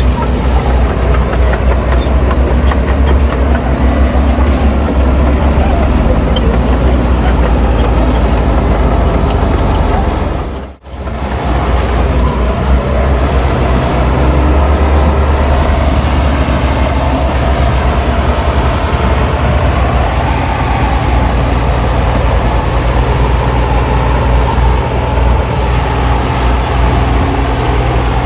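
Heavy diesel earthmoving machinery, a bulldozer working alongside dump trucks, running with a steady low engine drone. The sound cuts out for an instant about eleven seconds in, then picks up again.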